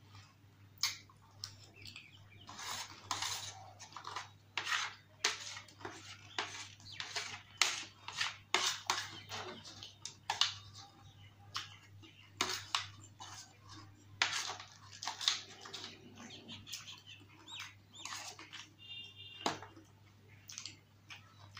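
Close-miked eating of dahi puri: wet chewing and crunching of the crisp, yogurt-soaked puri shells as many short crackles, with light clicks of a plastic spoon, over a faint steady low hum.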